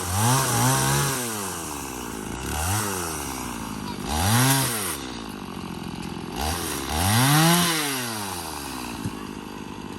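Chainsaw revving up and easing back four times as it cuts up a felled cherry tree, running steadily between revs.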